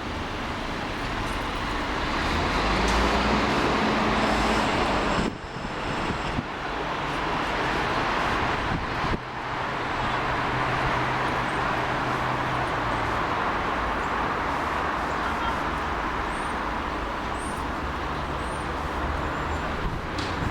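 Jet airliner engine noise, loud and steady, broken by two sudden dips about five and nine seconds in.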